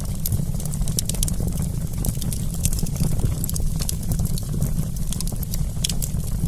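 Wood campfire crackling: frequent sharp pops and snaps over a steady low rumble.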